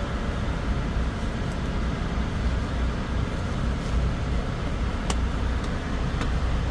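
Semi-truck running with a steady low rumble, with a couple of faint clicks about five and six seconds in.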